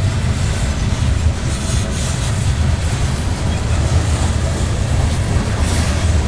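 Covered hopper cars of a freight train rolling past close by, a steady rumble of steel wheels on the rails.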